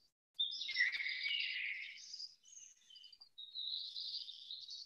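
Birds chirping and twittering, several overlapping high calls, with a short lull about three seconds in.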